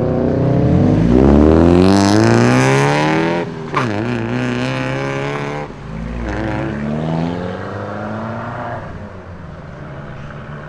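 Modified car accelerating hard through the gears: the engine revs climb steeply three times, dropping at each upshift, with a sharp crack just after the first shift. The sound then fades as the car drives away.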